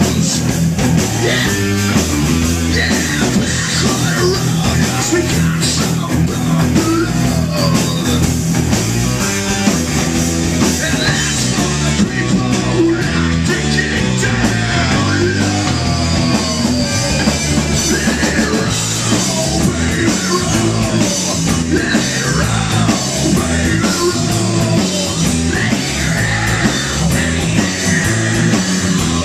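Loud rock music with electric guitar, bass and drums, running steadily.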